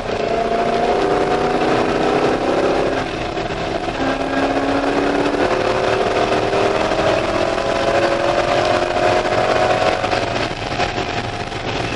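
C5 Corvette Z06's LS6 V8 running hard on track, heard from inside the cabin. The engine pitch climbs, drops about three seconds in, then climbs steadily again until near the end, when it falls away as the throttle eases.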